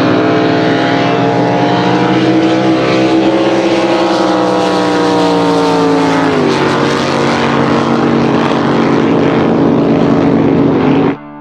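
Top Eliminator drag boat engines at full power during a race pass, loud over a rush of noise; the note climbs steadily for several seconds, drops sharply about six and a half seconds in as the throttle comes off, then runs lower until it cuts off suddenly near the end.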